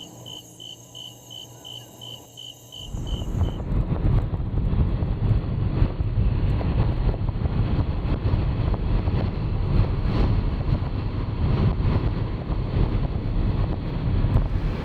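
Insect-like chirping, about five chirps a second, then about three seconds in a loud, steady low rumble of a car driving, with road and engine noise.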